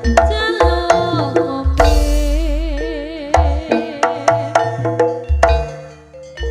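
Javanese jaranan gamelan music played live: sharp hand-drum (kendang) strokes in a steady rhythm over deep gong booms, with a wavering melodic line above. The music thins out briefly near the end.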